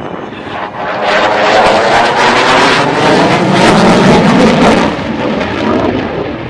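An aircraft passing overhead at an air show: a loud rushing noise that builds about a second in, holds for a few seconds, then eases off near the end.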